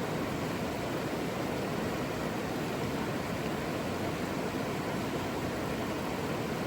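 Saluda River water rushing, a steady even wash of noise.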